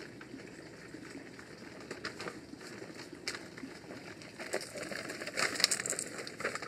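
Birds calling in the background, with scattered short crackling clicks that grow busier and loudest about five to six seconds in.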